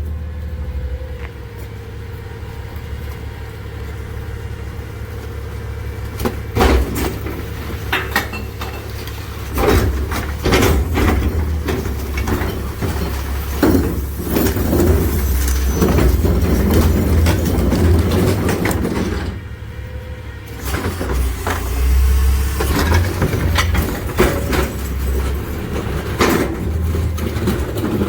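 McNeilus rear-loader garbage truck on a Freightliner chassis running steadily while its packer compacts a load of recycling, with frequent clanks and knocks throughout and a short lull about two-thirds of the way through.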